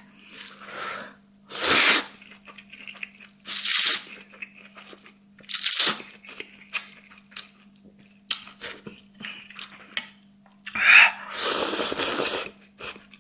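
A person eating spicy egg noodles: several loud, hissy slurps, with small clicks of chewing in between. A faint steady hum runs underneath.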